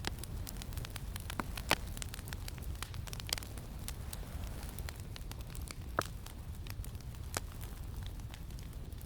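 Campfire crackling, with irregular sharp pops and snaps, the loudest about two seconds in and again around six seconds, over a steady low wind rumble.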